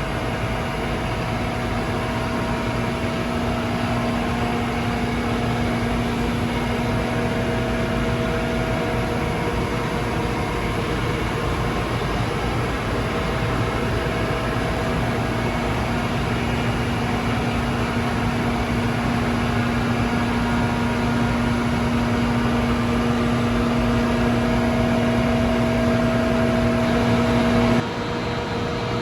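Asquith RMD 16/60 CNC horizontal boring mill running under power: a steady mechanical hum with a few whining tones that fade out and come back, changing abruptly near the end.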